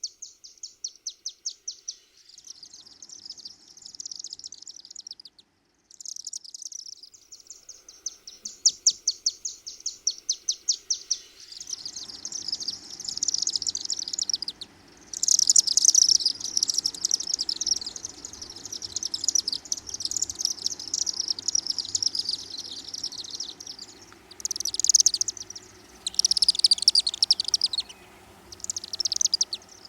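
Chimney swifts chittering in flight: rapid, high twittering trills, many overlapping, in bursts with short gaps. A low background rumble comes in abruptly about twelve seconds in.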